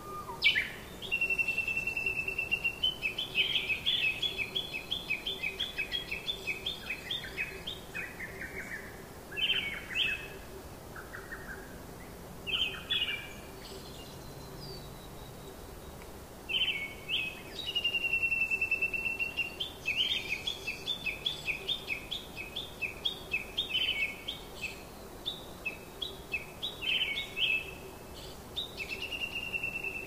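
A songbird singing. Each long phrase opens with a held whistled note, then runs into a fast string of repeated notes that drops in pitch. Two long phrases and a few short ones come in turn over a faint steady background hiss.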